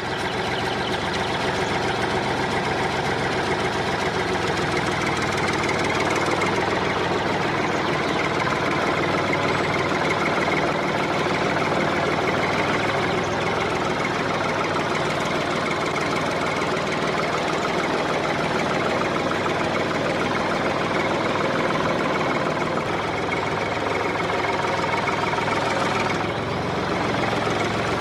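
Small engine of a homemade miniature tractor running steadily with a rapid knocking beat.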